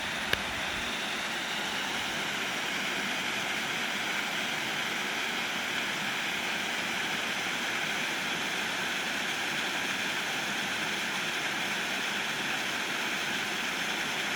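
Steady rushing of flowing water, a mountain stream or small waterfall, with one sharp click about a third of a second in.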